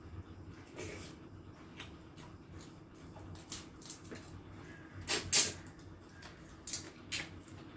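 A person eating: scattered short clicks and smacks of chewing and handling food, loudest in a brief cluster about five seconds in.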